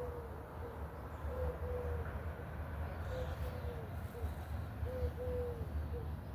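A dove cooing in repeated soft three-note phrases, a short coo, a longer one and a short one, about every two seconds, over a steady low rumble.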